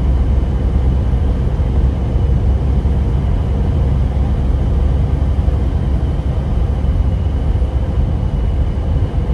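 Steady low drone of a semi-truck's engine and tyre noise heard inside the cab while cruising on the highway, with a faint steady whine above it.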